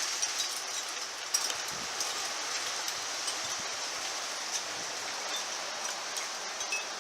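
Rain pouring down in a storm: a steady hiss with scattered small ticks of drops striking.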